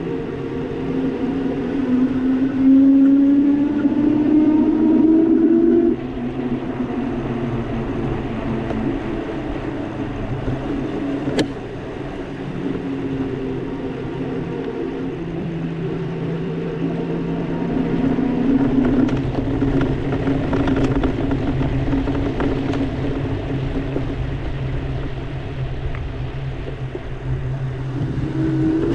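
EP-2 Pro e-bike's electric motor whining under power, rising in pitch as the bike speeds up and then cutting off suddenly about six seconds in. The whine comes back steadier later, over a constant rushing noise, with one sharp click near the middle.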